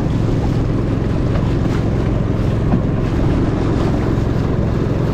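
Longtail boat engine running steadily at speed, a constant low hum, with wind blowing on the microphone.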